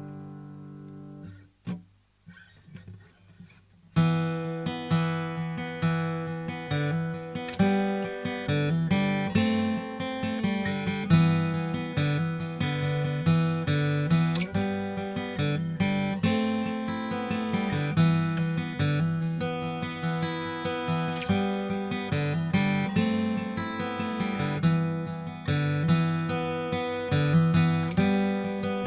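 Seagull S6 acoustic guitar, with a solid cedar top and wild cherry back and sides, being played. A chord rings out and dies away, there is a short quiet gap, and from about four seconds in there is continuous picked playing of ringing notes and chords.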